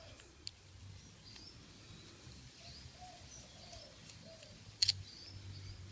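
Faint clicks of small metal parts as a padlock is taken apart, with one sharper click about five seconds in. Faint high chirps, like distant birds, come and go in the background.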